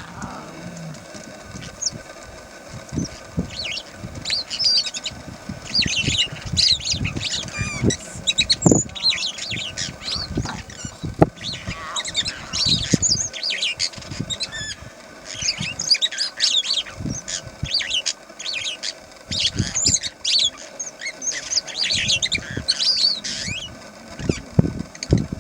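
Birds chirping in many quick, high-pitched notes throughout, with occasional low thumps.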